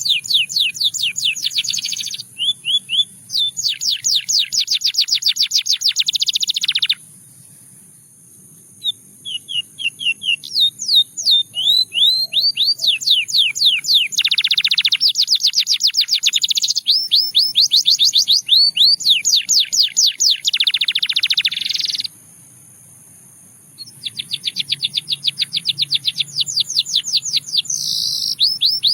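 Russian singing canary singing long phrases of fast trills, rapid runs of repeated notes that change speed from phrase to phrase. There are two breaks of about two seconds, one about a third of the way in and one about three quarters of the way in.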